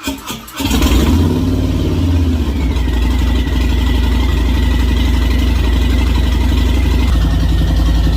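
Car engine cranking for a moment, catching about half a second in, then running steadily and loudly through its exhaust mufflers. This is a first start after the car has sat unused for a while, a start the owner calls rough.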